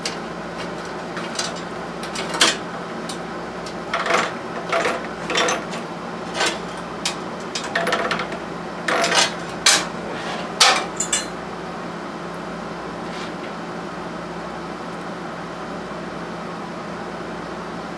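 Irregular metal clinks and knocks of tools and parts being handled on a mini bike, a dozen or so over the first ten seconds or so, then stopping. A steady low hum runs underneath throughout.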